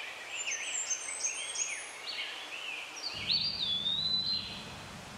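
Songbirds chirping and singing outdoors: many short, quick high notes and one longer whistled note a little past the middle. A low steady background rumble comes in about three seconds in.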